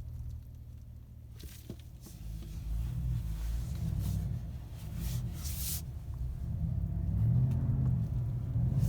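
Low, steady vehicle rumble, growing louder in the second half, with a few brief hissing noises.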